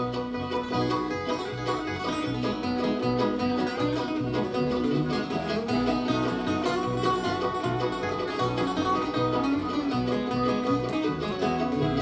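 Live bluegrass band playing an instrumental break, banjo and guitar picking over a steady bass beat.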